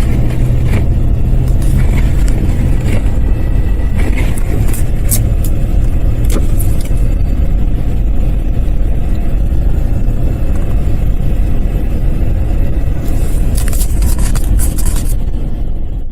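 A car in motion, heard as a loud steady low rumble of engine and road noise with scattered light clicks and rattles.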